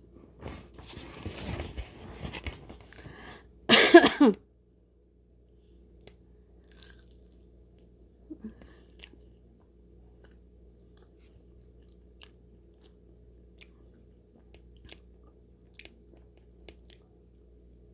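A person biting into a fried chicken nugget dipped in ranch and chewing it, with crunching over the first few seconds. There is a short loud burst about four seconds in, then only faint chewing clicks.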